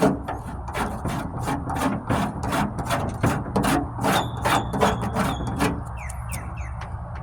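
Surform flat-blade rasp scraping back and forth over body filler on a truck tailgate, in quick strokes of about three a second, thinning out near the end.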